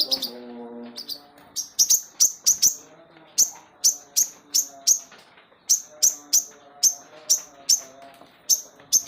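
A sogon sunbird calling steadily, a long run of short, sharp, high chirps about two a second, each dipping slightly in pitch.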